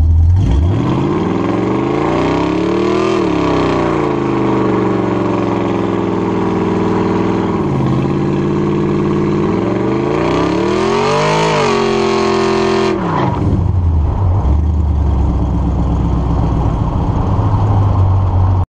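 2006 Pontiac GTO's 6.0-litre LS2 V8, uncorked through long-tube headers with no catalytic converters, pulling hard with its pitch rising, easing off and falling, then rising again to a peak. A little before the end the engine note drops out and a louder, steady low rumble takes over.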